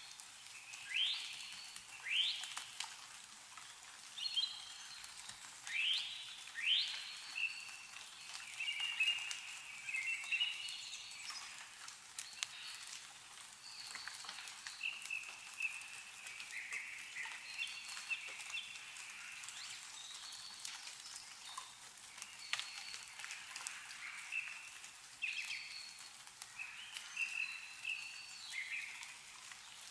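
Wild birds calling: a run of sharp falling calls in the first seven seconds, then warbling phrases, over scattered drips of meltwater falling from snowy trees.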